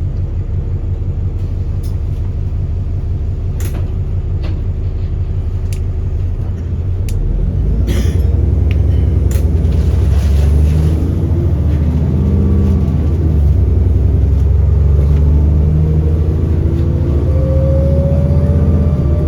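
Alexander Dennis Enviro400 double-decker bus engine ticking over, then pulling away about seven seconds in, getting louder and climbing in pitch through several gear changes of its ZF Topodyn automatic gearbox. A rising turbo whistle comes in near the end, and a few sharp clicks sound in the first half.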